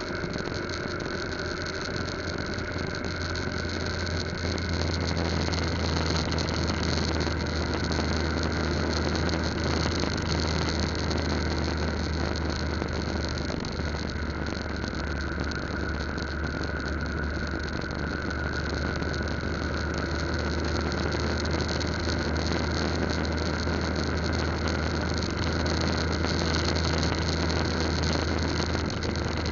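Yamaha Lagenda 115Z's small single-cylinder four-stroke engine running at a steady cruise, heard from the moving bike under a constant rush of wind and road noise.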